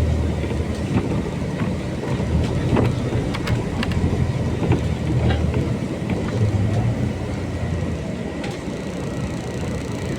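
Interior of a MAZ-203 city bus on the move: a low engine and road rumble with scattered rattles and clicks, the rumble easing about eight seconds in.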